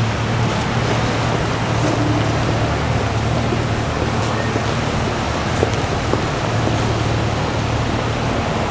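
City street ambience: steady traffic noise with a low engine hum underneath.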